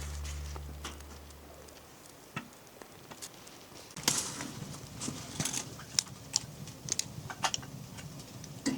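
A low hum fades away over the first two seconds; from about four seconds in come irregular light clicks and crinkles.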